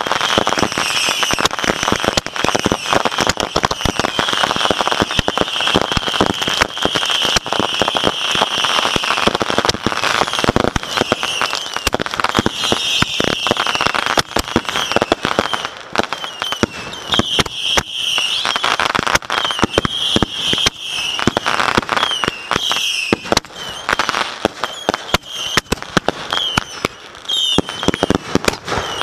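Consumer fireworks going off at close range in a dense barrage: rapid crackling and popping from tubes and fountains on wooden launch racks, with repeated shrill whistles throughout. The barrage thins out near the end.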